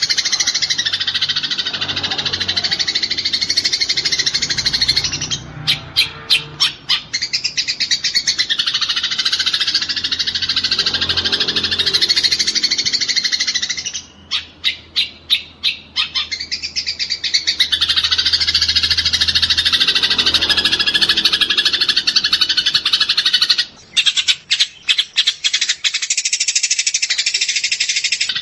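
Eurasian tree sparrows chattering densely, as in a sparrow fight. The chatter is broken three times by runs of sharp, rapid notes, about four a second, each run lasting about two seconds.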